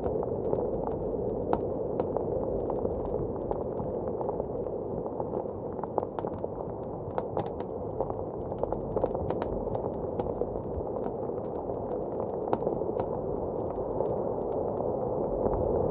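Wood fire crackling in a fireplace, with irregular sharp pops and snaps, over the steady rush of blizzard wind outside, which swells slightly near the end.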